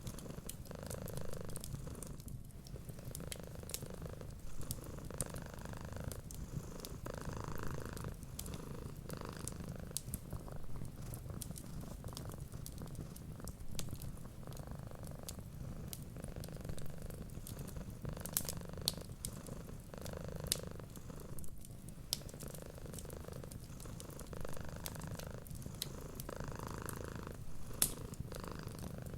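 Domestic cat purring steadily, the purr swelling and easing with each breath, with scattered small crackles from a wood fire.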